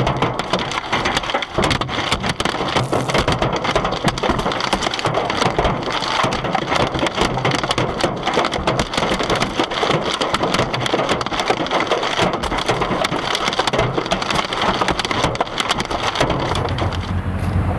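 Hail pelting a car, a dense, unbroken clatter of icy hits on metal and glass. Near the end the hits thin out and a low steady hum takes over.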